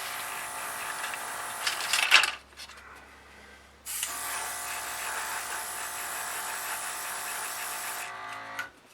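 A small electric motor whirring steadily with a hiss. It stops abruptly about two seconds in, starts again about a second and a half later, and stops again near the end.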